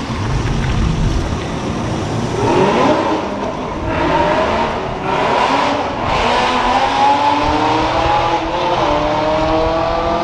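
A car accelerating hard at full throttle, its engine note climbing in long rising sweeps that drop back and climb again, over a broad rumble of exhaust and tyre noise.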